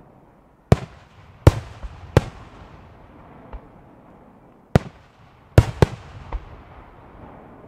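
Aerial firework shells bursting overhead: about seven sharp bangs in two clusters, the second near the end of the first half and the rest a couple of seconds later, each followed by an echoing rumble, with a few fainter pops between.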